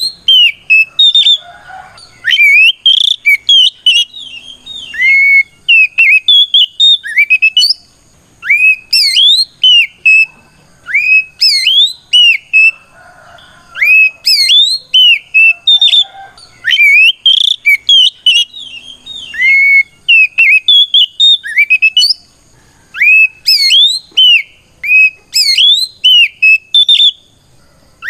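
Oriental magpie-robin (kacer) singing loudly in repeated phrases of clear, sweeping whistles that rise and fall, with a short pause between phrases. It is a loud, open challenge song calling out to a rival.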